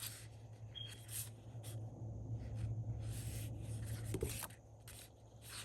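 Paper being handled: short, irregular rustling and rubbing strokes as sticker sheets and planner pages are moved and pressed down, over a steady low hum.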